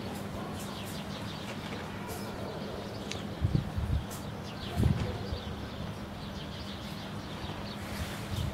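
Small birds chirping in short, repeated notes over a steady low hum, with a few loud, low thumps around the middle.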